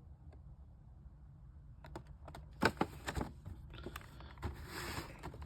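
Handling noise from a boxed action figure's cardboard-and-plastic package being moved: a few sharp clicks and knocks about two and a half seconds in, then rustling and rubbing, over a faint low hum.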